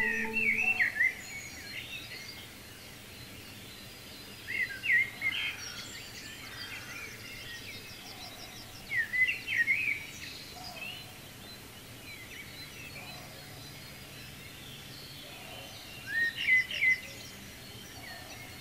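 A songbird singing short warbled phrases, four times, several seconds apart, over a faint steady background hiss.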